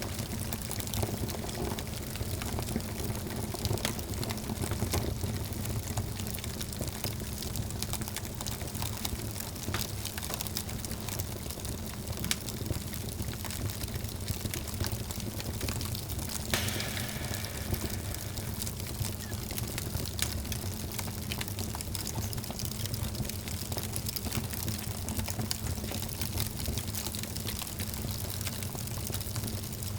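Wood fire burning in a fireplace: a steady low rumble of flames with frequent small crackles and pops, and one brighter crackle just past halfway.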